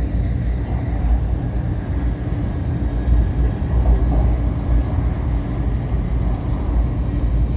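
Cabin noise inside a 500 Series Shinkansen running along the line: a steady low rumble with a running hiss above it.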